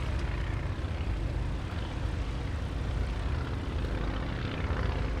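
Light aircraft's piston engine and propeller running at a steady, even pitch.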